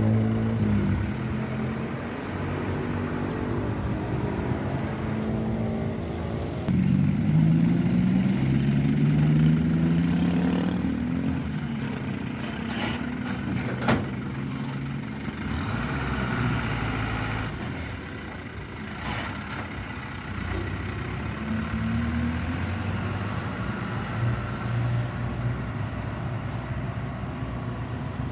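Heavy truck engines running as trucks pass, one accelerating about seven seconds in with a rising engine pitch and a louder stretch, and a single sharp knock about halfway through.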